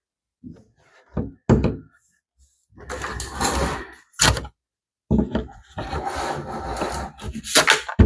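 Hard plastic pool ladder parts being handled, with a series of sharp knocks and two longer stretches of scraping and rustling as pieces are shifted and pushed together.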